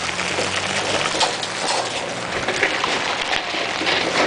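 Hail and rain pelting down: a dense, steady patter of many small, sharp hits.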